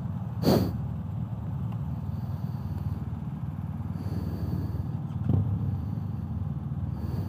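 BMW R 1250 GS Adventure boxer-twin motorcycle engines idling steadily, with a sharp clunk about half a second in and a softer one around five seconds in.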